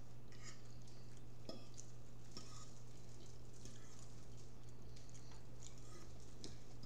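Faint chewing and mouth clicks of people eating crunchy double-decker tacos, with a few sharper crunches scattered through, over a steady low hum.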